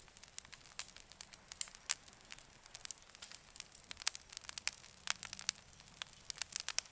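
Campfire crackling: irregular sharp snaps and pops, dense and uneven, over a faint hiss.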